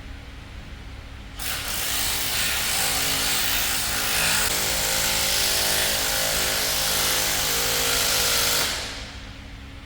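A power tool running steadily for about seven seconds, starting abruptly about a second and a half in and stopping near the end.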